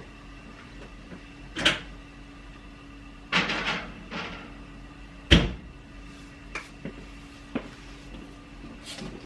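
Kitchen handling sounds as a baking tin goes into an oven: a knock, a scraping clatter, then the loudest thud about five seconds in as the oven door shuts, followed by a few light clicks, over a steady low hum.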